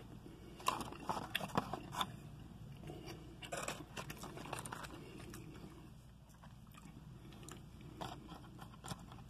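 Faint crunching and chewing of breaded fried clams, with clusters of small crisp clicks a second or two in, near the middle and again near the end.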